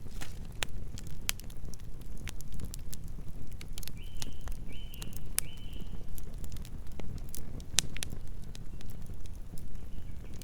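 Wood fire crackling, with sharp irregular pops over a low steady rumble of burning. About four seconds in, three short high chirps come one after another.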